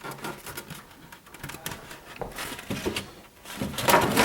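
Hard styrofoam beehive lid being worked loose and lifted off the hive body: scraping and rubbing with short squeaks, loudest near the end.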